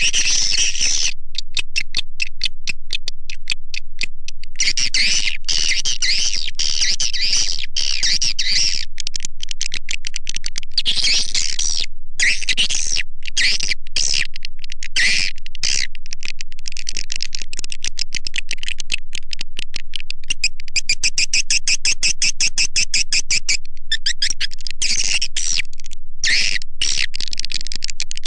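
Swiftlet call-lure recording: dense, rapid, high-pitched chirping and twittering of many swiftlets, looping on without pause apart from brief gaps.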